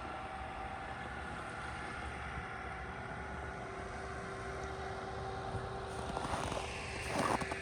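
A steady distant drone like a far-off engine, with a faint hum. About six seconds in, footsteps crunching in snow begin, a step roughly every half second.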